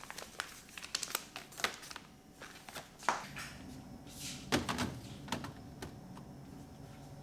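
Household objects being handled and set down: an irregular series of sharp clicks, taps and light knocks, with a soft rustle about four seconds in and a faint low hum in the second half.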